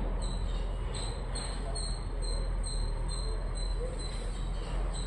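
Short high-pitched chirps repeating about twice a second over a steady low rumble.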